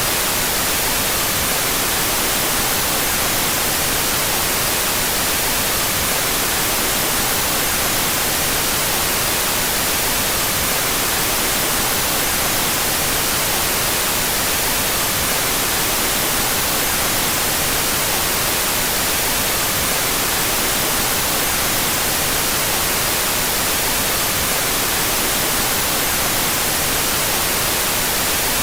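Steady electronically generated white noise played with its stereo channels out of phase: a constant even hiss, brightest in the treble, with no change in level or character.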